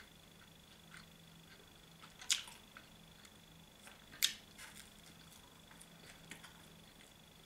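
A man chewing pizza: soft wet mouth clicks, with two louder sharp clicks about two and four seconds in, over a faint steady high-pitched whine.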